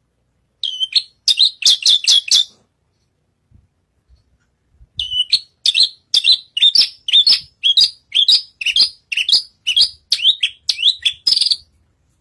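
Horsfield's bush lark (branjangan) singing in full voice: a quick burst of about six sharp chirps, then, after a pause of a couple of seconds, a longer run of repeated chirps, two or three a second.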